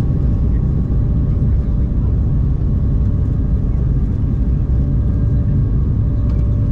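Steady low cabin rumble of an Embraer 190-E2 airliner, its Pratt & Whitney PW1900G geared turbofans and airflow heard from inside the passenger cabin, with a few faint steady hum tones above it.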